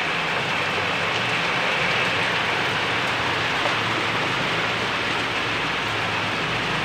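Heavy rain falling steadily in a cyclone, a constant even hiss of rain on surfaces.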